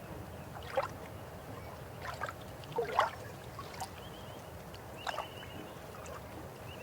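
River water flowing steadily, with irregular splashes and gurgles standing out from the rush: one about a second in, two close together around two to three seconds (the loudest), and another about five seconds in.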